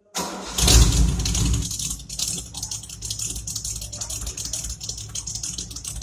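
Ford Maverick's 302 V8 starting right at the beginning, running up loudly for about a second, then settling into a steady idle with a dense rumble of exhaust pulses.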